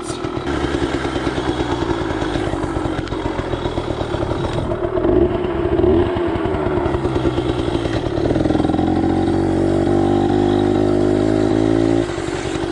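Yamaha PW80's single-cylinder two-stroke engine, fitted with an FMF slip-on exhaust and Boyesen reed valves, running and being blipped. About two thirds of the way through it is held at higher revs for several seconds, then drops back to idle.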